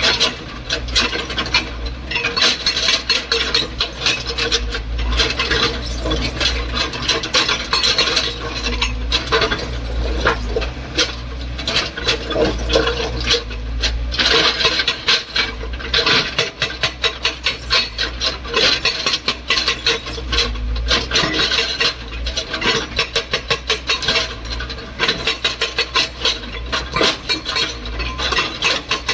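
Excavator at work breaking material: a steady low engine hum under a dense, rapid clatter of metal and hard knocks that goes on without a break.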